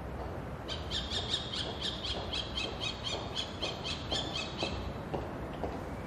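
A bird calling in a quick series of short, high chirps, about three a second, for some four seconds; fainter, lower ticks follow about twice a second near the end.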